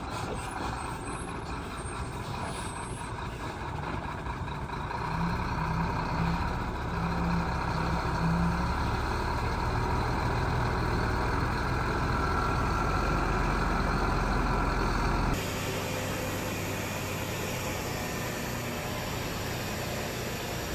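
Heavy diesel earthmoving machinery running: a bulldozer and trucks working, with the engine drone growing louder over several seconds. The sound changes abruptly about fifteen seconds in, then carries on as a steady, quieter engine drone.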